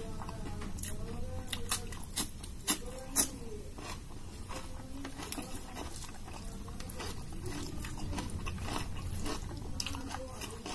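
Close-miked chewing, with wet mouth clicks and a few louder crunchy bites about 1.5 to 3.5 s in. Fingers squish rice and dal on the plate.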